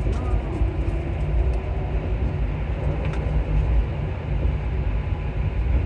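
Alstom MP14 rubber-tyred metro train running through a tunnel: a steady, loud rumble with a few faint clicks.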